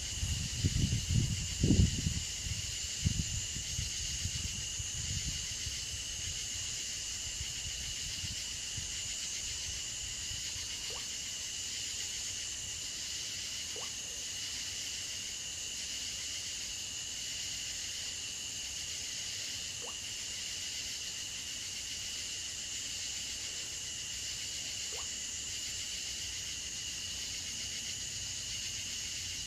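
Steady chorus of insects droning without a break in two high bands. Low rumbling thumps, like wind or handling on the microphone, are loudest in the first few seconds.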